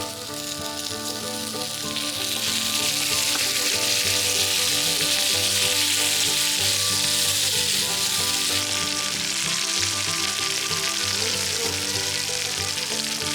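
Food frying in a shallow layer of oil in a pan, a steady sizzle that grows louder about two seconds in, with background music underneath.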